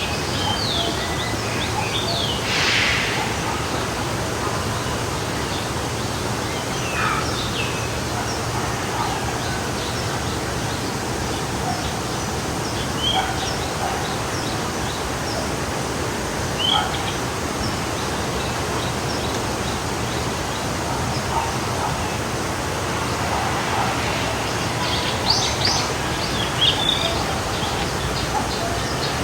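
Forest stream flowing steadily, with scattered short bird chirps and calls over it, a few near the start and a busier run of chirps near the end.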